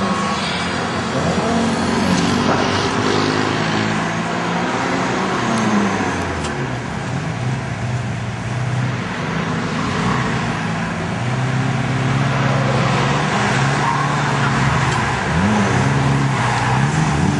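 Supercharged VW Golf Mk2 G60 cars driving past, engines running and revving, with the pitch shifting in steps and one rise and fall near the end.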